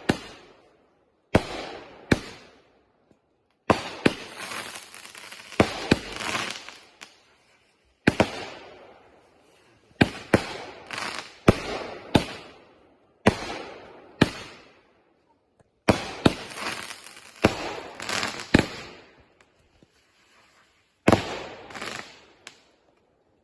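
Consumer fireworks going off: a string of about twenty sharp bangs in uneven clusters, each followed by a crackling, hissing tail. The shots stop about a second before the end.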